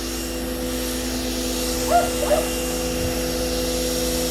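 Electric pressure washer running steadily while rinsing a car, its motor giving an even hum, with two short high-pitched sounds about two seconds in.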